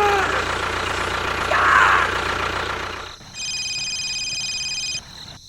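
An engine running steadily, then cutting off about three seconds in, with short voice-like cries over it. A steady high electronic tone of several pitches follows for nearly two seconds.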